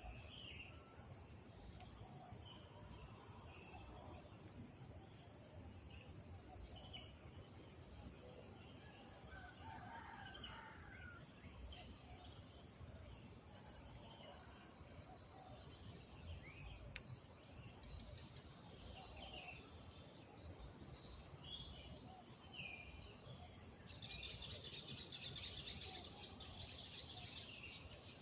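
Village morning ambience: a steady drone of insects such as crickets, with birds chirping now and then. Near the end a denser, louder chirring rises for a few seconds.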